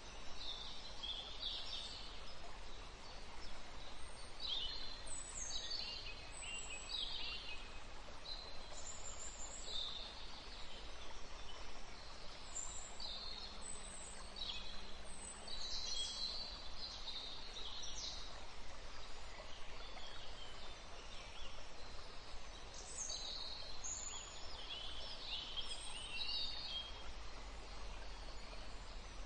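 Small birds chirping repeatedly in short, high, quick-gliding calls, over a steady background hiss.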